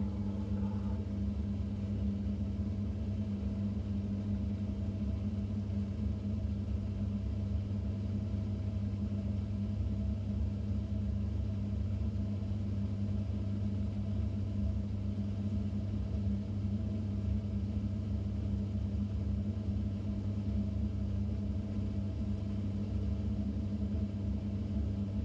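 Samsung 6.5 kg top-load washing machine running, heard from inside the tub: a steady motor hum over a low rumble.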